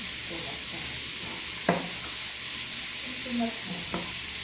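Beef sizzling as it is sautéed in a pan with garlic and onion, while it is stirred, with two sharp clinks of the utensil against the pan.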